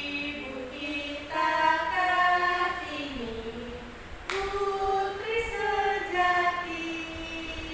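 Several voices singing a song together without instruments, in held notes about a second long; a sharp click about four seconds in.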